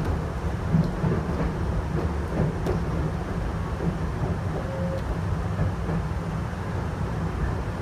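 Chichibu Railway train running along the line: a steady low rumble of wheels and running gear on the track, heard from inside the front of the train.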